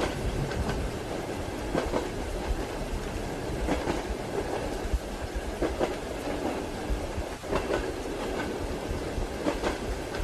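Railway carriage rolling at a steady speed, with a low rumble and the rhythmic clickety-clack of wheels over rail joints. The knocks come in small groups about every two seconds.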